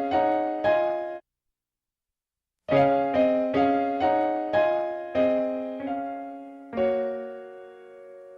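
Piano music. A few struck chords, a sudden silence of about a second and a half, then a run of chords about half a second apart, ending on a long held chord that slowly fades.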